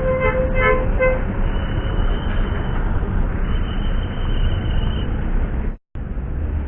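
Roadside traffic noise with a vehicle horn tooting several short times in the first second, then a thin, high steady whine on and off through the middle; the sound cuts out completely for a moment near the end.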